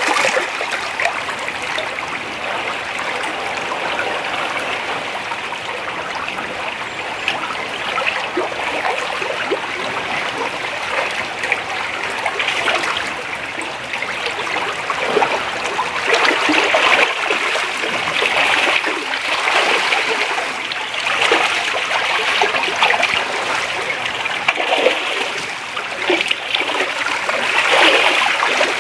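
Creek water running and splashing over shallows, as a steady rush with louder splashy swells now and then.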